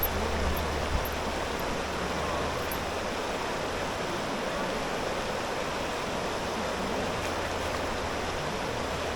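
River water rushing steadily over rocks, an even noise throughout, with a low rumble in the first couple of seconds.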